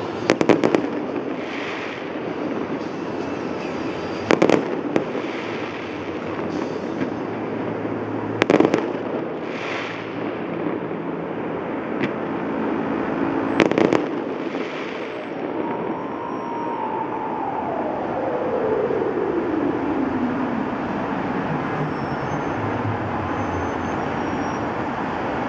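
Fireworks shells bursting: four loud bangs a few seconds apart, two of them followed by a short crackle. In the second half a long whine falls steadily in pitch over about six seconds as a vehicle passes.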